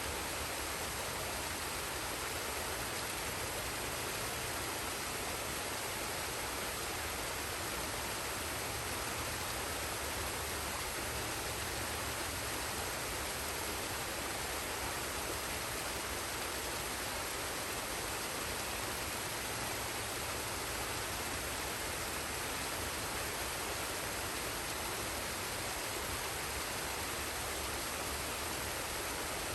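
Forest waterfall and stream water flowing: a steady, unchanging rush of water.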